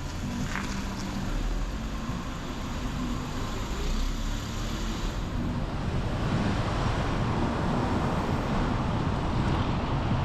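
Road traffic sound: a steady low vehicle engine hum, then road and wind noise growing louder from about halfway.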